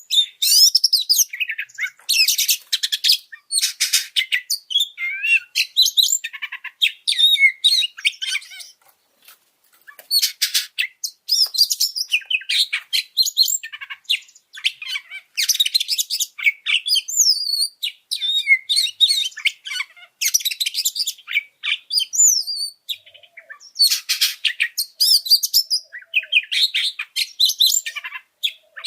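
Oriental magpie-robin (kacer) singing a fired-up song of rapid, varied high chirps, trills and whistles. It comes in bursts with short gaps and pauses briefly about nine seconds in.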